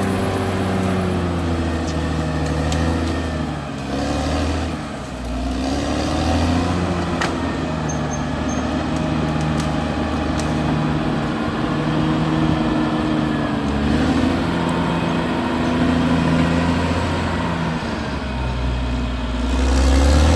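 Caterpillar D6R XL bulldozer's diesel engine working under changing load, its pitch dipping and recovering a few times and louder near the end, with an occasional faint click.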